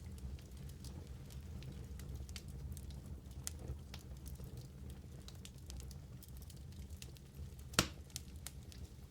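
Wood fire in a fireplace crackling, with scattered small snaps over a steady low rumble of the flames. One loud pop comes near the end.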